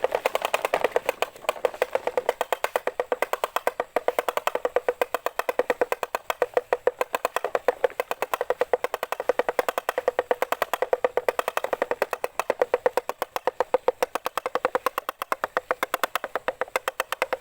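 Rapid, even clicking, several sharp clicks a second without pause, with no low engine rumble under it.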